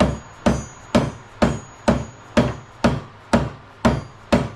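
Hammer tapping a new wheel bearing into a UTV's rear hub with evenly spaced strikes, about two a second, stopping near the end.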